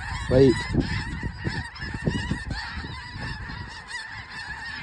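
A large flock of snow geese calling at once, a dense, continuous clamour of overlapping honks, with wind buffeting the microphone.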